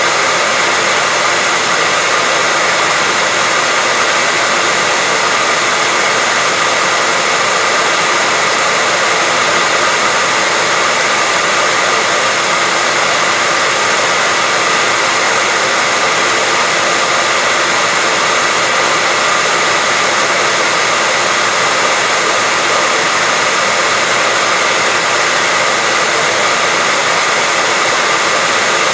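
Hair dryer running steadily: an unchanging blowing whoosh with a steady whine in it, played continuously as a sleep sound for a baby.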